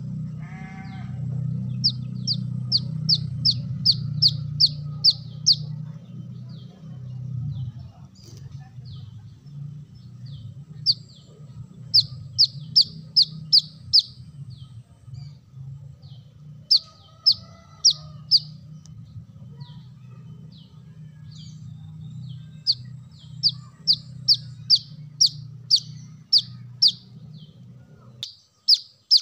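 Brown-throated sunbird song: runs of about eight to ten sharp, high, repeated notes, roughly three a second, given four or five times with short pauses, over a steady low hum that cuts off near the end.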